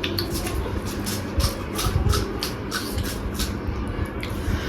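Close-miked chewing of crunchy gilo chatpate, a spicy puffed-rice snack mix, with quick repeated crunches about four or five a second.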